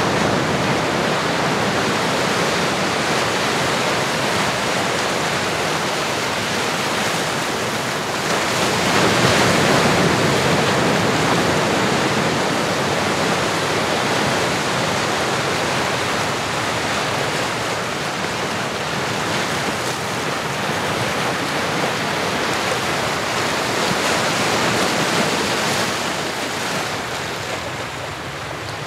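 Ocean waves washing in steadily on a shore, swelling louder about eight seconds in and easing off again.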